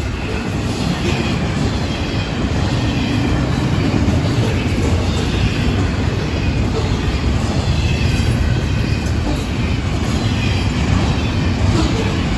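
Florida East Coast Railway intermodal freight train rolling past: a steady rumble of wheels on rail, with faint high wheel squeal over it.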